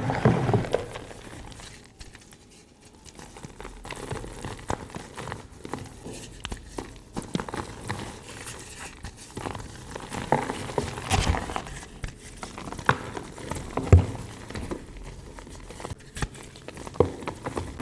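Reformed gym chalk being crushed and crumbled: irregular dry crunches and crackles, with a denser run of crunching about ten seconds in and a single sharp crunch a few seconds later.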